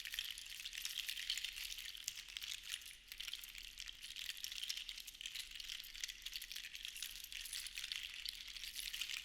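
Seashells rattling and clattering against each other in a dense, continuous stream of tiny clicks, with a brief lull about three seconds in.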